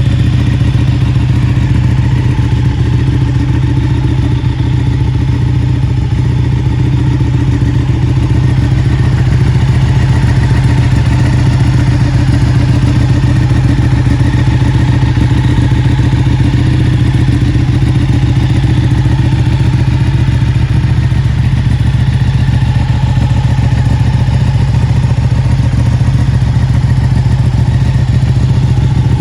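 Ducati Panigale 959's Superquadro V-twin engine idling steadily through a full-system Akrapovic exhaust, loud and even with no revs.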